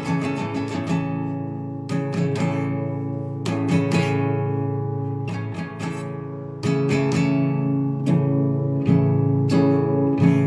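Solo classical guitar improvising: a quick run of picked notes at the start, then arpeggiated chords struck every second or two and left to ring out.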